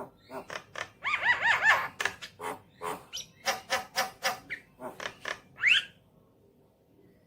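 Javan myna calling in a rapid series of short, harsh notes, with a run of repeated arching, warbled notes about a second in and a rising whistle near the end; then it goes quiet for the last second.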